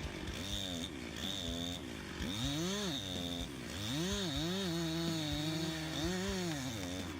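Chainsaw engine revving up and down, its pitch rising and falling several times and held high for about a second partway through.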